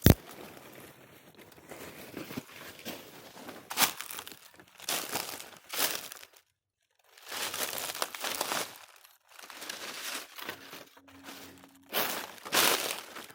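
Footsteps crunching on dry forest-floor litter, an irregular crunch about once a second, with a sharp click at the start and a brief complete dropout midway.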